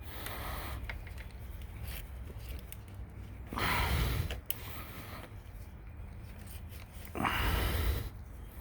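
A man breathing out heavily twice, a few seconds apart, each breath about a second long, while straining at pressing spline into a screen door frame.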